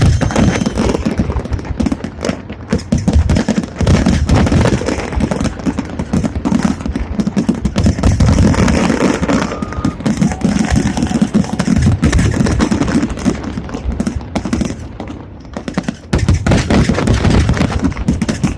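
Fireworks going off in a dense, rapid barrage of overlapping bangs and crackles, with a brief lull about two seconds before the end.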